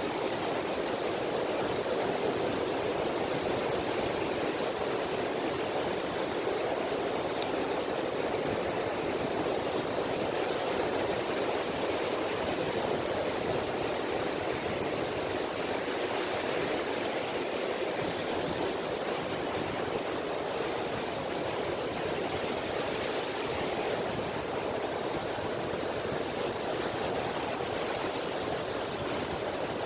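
Gentle sea ripples lapping at a beach as a steady, even wash of water with no separate breaking surges.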